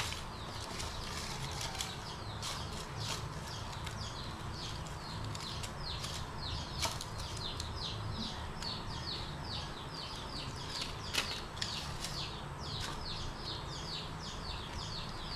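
A bird calling over and over: a fast run of short, falling chirps, several a second, starting about two seconds in and stopping shortly before the end. A low steady hum and a few light clicks lie underneath.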